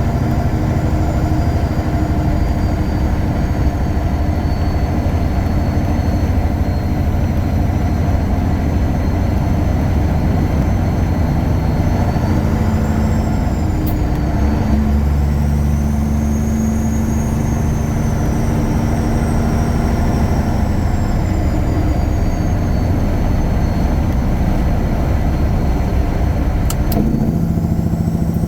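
Tuned Caterpillar 3406E inline-six turbo diesel in a 1999 Freightliner Classic running under way, with a high whistle gliding up and down above the engine note. The engine note changes about halfway through and again near the end, each time with a brief click.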